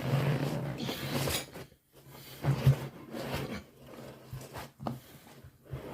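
Rubber inner tube being pulled out of a Land Rover tyre: scraping and rustling of rubber against rubber, with a few knocks and clicks as the tyre is handled.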